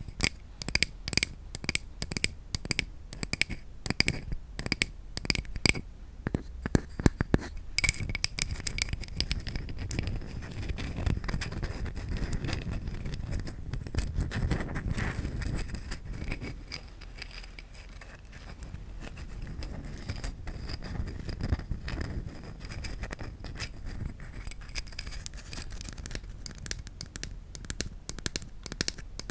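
Quick, regular tapping on a wooden object, about three or four taps a second with a light ringing tone, turning about eight seconds in into dense scratching and scraping across the wood. Near the end there is mixed scratching and tapping.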